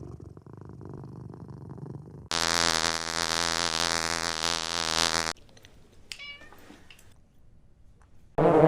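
Domestic cat purring, loudest for about three seconds in the middle, then a short faint meow about six seconds in.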